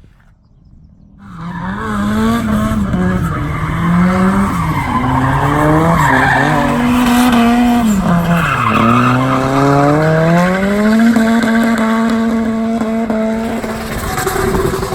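Drift car's engine revving up and down while the car slides, with tyres squealing. The note comes in about a second in, drops low about halfway through, then climbs and holds steady until near the end.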